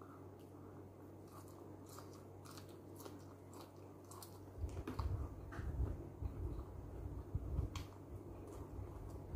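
Close-miked chewing and mouth sounds of a person eating by hand: faint wet clicks at first, then louder, heavier irregular chewing from about halfway in, once a fresh mouthful is taken.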